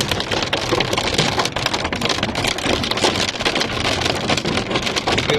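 Small hailstones pelting a car in a dense, steady rattle of many quick hits.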